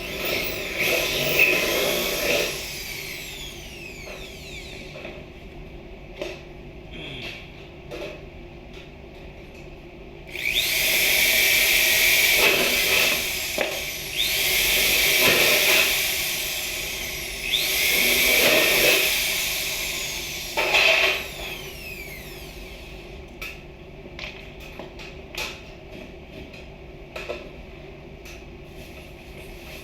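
Electric drill running in several bursts of a few seconds, mostly in the middle, its whine sliding in pitch as the motor speeds up and slows down. Scattered knocks and clicks in between.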